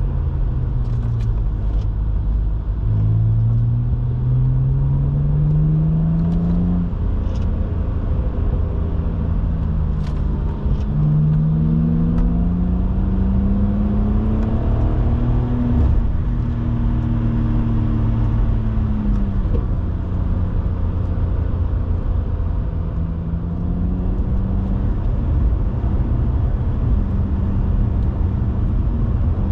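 BMW 130i's 3.0-litre straight-six heard from inside the car, pulling through the gears. Its note rises twice with a drop in pitch between the pulls, eases off past the middle and then settles to a steady cruise.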